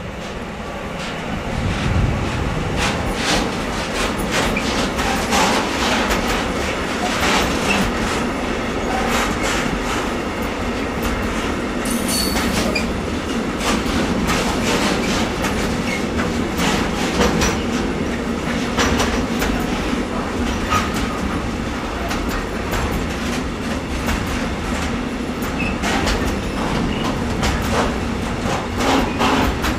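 Long freight train rolling through the station, growing louder over the first couple of seconds. Its wheels click over rail joints and points in a rapid, uneven stream, with a brief high wheel squeal about twelve seconds in.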